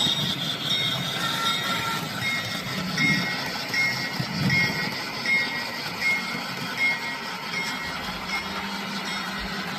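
Sound-equipped model railroad train running, with a bell dinging steadily about every 0.8 seconds from about two seconds in, stopping near the end.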